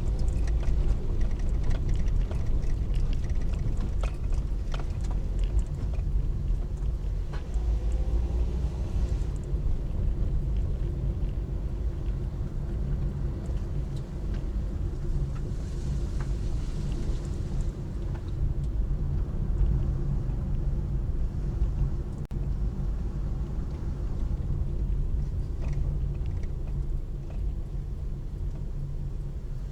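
Steady low rumble of a car in motion: engine and road noise, with a few faint clicks.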